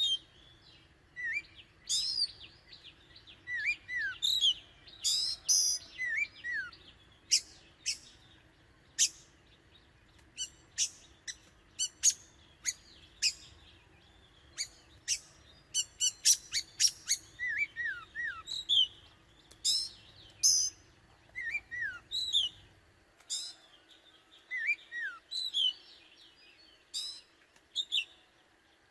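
Oriental magpie-robin calling: an irregular run of sharp chips and short whistled notes that drop in pitch, many in quick succession.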